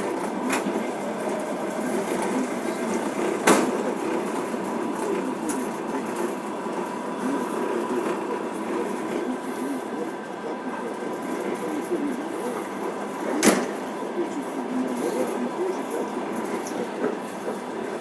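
Passenger train running along the line, heard from inside the carriage as a steady rolling noise, with two sharp clicks about ten seconds apart.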